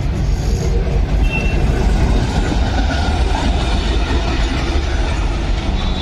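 Train running along the track, with a loud, steady rumble of wheels on rails.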